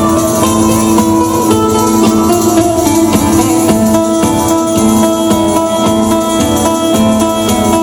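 Southern Italian folk ensemble playing instrumentally: guitar and a jingling frame drum keep a steady rhythm over long held accordion notes.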